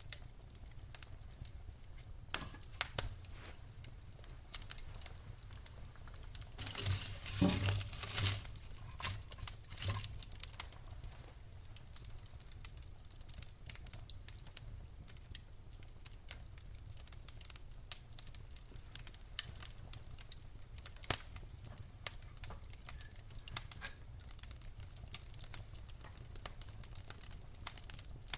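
Wood fire burning in a fireplace: logs crackling with scattered sharp pops over a low steady rumble, with a louder flurry of crackles and hissing about seven seconds in.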